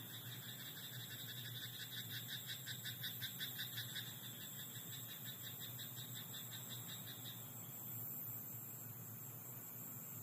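Frogs calling in a rice paddy at night: a rapid, pulsing croak chorus that swells and then dies away about seven seconds in, over a steady high-pitched hum.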